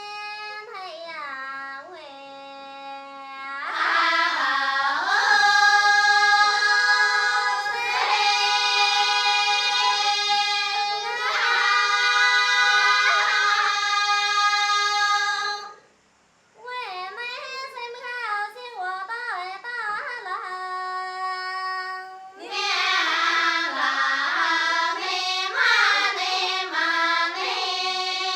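Dong women's choir singing a Grand Song, the polyphonic unaccompanied choral form of the Dong people, in high, bright voices. A thinner opening line swells after a few seconds into full chorus, with a long held low note under a moving upper melody. The voices break off briefly about halfway through, resume more thinly, then swell into full chorus again.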